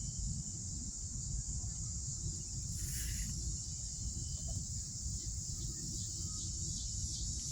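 Steady high-pitched chorus of crickets, with a low rumble underneath and a brief hiss about three seconds in.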